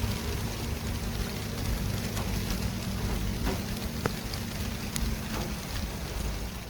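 City street traffic ambience: a steady wash of tyre and engine noise with a low rumble and a few faint sharp clicks, dipping slightly near the end.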